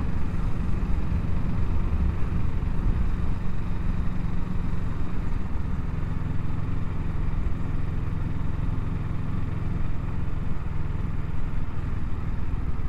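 Kawasaki Ninja 650's parallel-twin engine running at low speed, a steady low drone, while the bike rolls over cobblestones.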